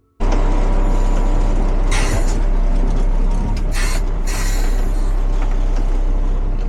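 Front-loader garbage truck running loudly with a steady engine drone, with short hisses about two seconds in and again about four seconds in.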